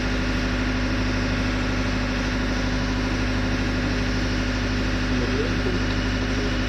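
Steady drone of engine-room machinery, an engine running at a constant speed with a strong unchanging hum.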